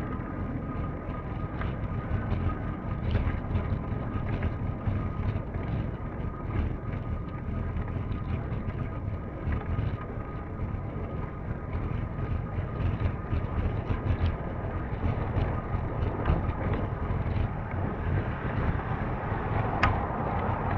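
Steady wind rumble over a moving microphone, with frequent small rattles and clicks and a faint steady whine.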